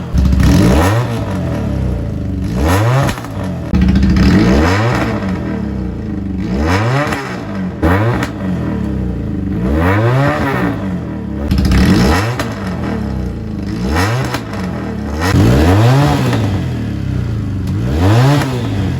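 Factory FK370 motorcycle engine revved through an aftermarket exhaust, the throttle blipped again and again so the pitch rises and falls roughly every one to two seconds.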